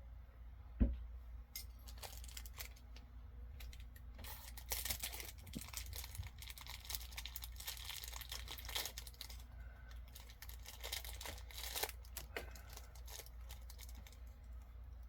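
Plastic packaging crinkling and tearing in bursts as small items are unwrapped, with a single knock about a second in.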